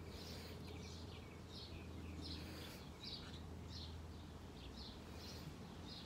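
Faint, high bird chirps repeating about two or three times a second, over a steady low hum.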